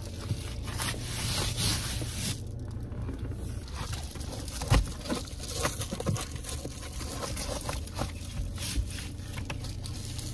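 Clothing rustling, scraping and knocking of someone moving about in a car, with a steady low hum underneath. A sharp knock comes about five seconds in.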